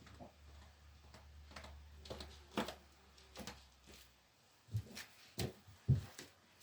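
Kunft washing machine paused between drum turns during a quick wash. A faint low hum stops about four seconds in, and scattered soft clicks and knocks come from inside the machine.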